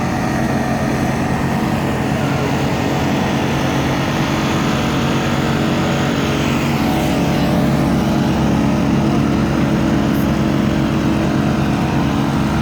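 An engine running at a steady speed, a constant low drone. A faint higher whine sweeps through about six to seven seconds in.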